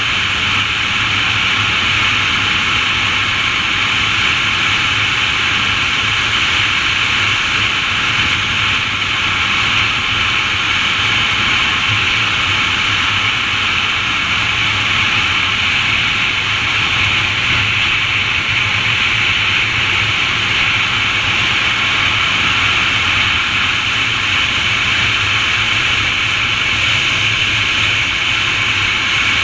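Steady, unchanging rushing noise, strongest in a high-middle hiss with a low hum beneath, with no distinct events.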